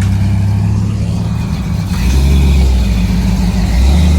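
Car engine running loudly with a low, steady note, which steps up slightly in pitch and level about two seconds in and again near the end, as a light rev.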